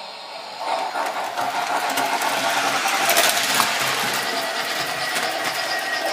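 Model train locomotive with a Protosound 2.0 sound system starting up: a loud, noisy mechanical rush with rapid clicking that comes on suddenly about a second in and keeps going.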